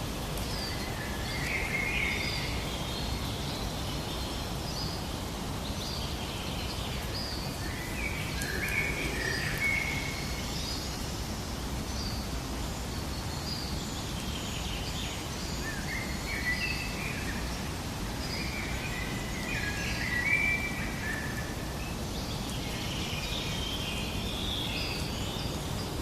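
Several songbirds chirping and warbling in bursts over a steady low background rumble of outdoor ambience.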